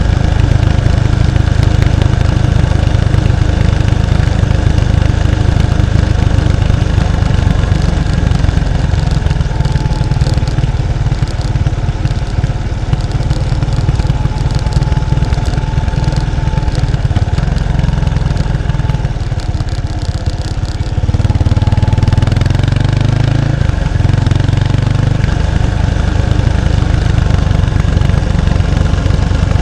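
Exhaust of a 1993 Kawasaki Estrella's 250 cc single-cylinder engine through its stock muffler, picked up close at the rear number plate, running on the move. About two-thirds of the way through it drops back briefly, then comes up louder again.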